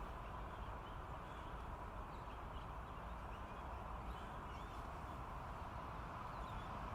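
Faint, short whistled calls of pine grosbeaks, a scattering of brief notes over steady background noise.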